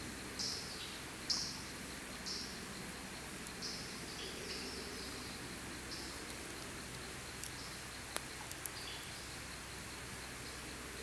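Campfire with a few sharp crackling pops a little past two-thirds through, over a steady hiss. Above it, a high chirp falling in pitch repeats about once a second, growing fainter later on.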